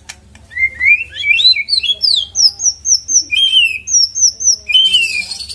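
White-rumped shama (murai batu) singing: a rapid run of rising whistled sweeps, then quick repeated high notes at about three to four a second, closing with a short harsh rasping note near the end.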